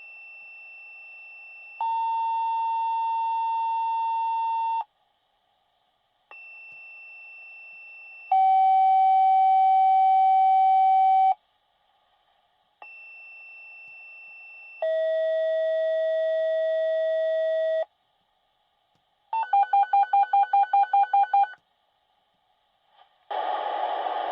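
Fire dispatch radio paging tones, played three times. Each time a fainter high tone sounds for about two seconds, then a loud lower tone for about three, and each lower tone is pitched below the one before. Then a rapidly pulsing alert tone beeps about five times a second for about two seconds, and a dispatcher's voice comes over the radio near the end.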